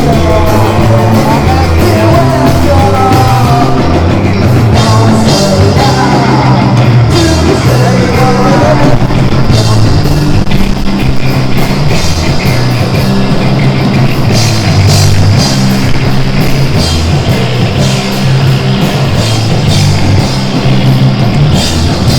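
Live rock band playing loud, with bass, drum kit and guitar, and voice-like lines bending in pitch over the first several seconds.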